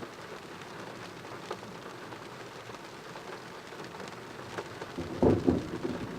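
Steady rain falling, with a few sharp drop ticks; about five seconds in, a loud crackling rumble of thunder breaks in and keeps going.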